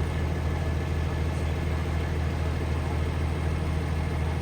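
A large engine running steadily at idle, a deep even drone with no change in speed.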